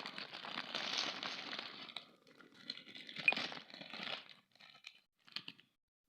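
Plastic candy wrapper being crinkled and torn open. A dense rustle runs for about two seconds, then comes in shorter bursts with one sharp crackle about three seconds in, and ends as a few brief rustles.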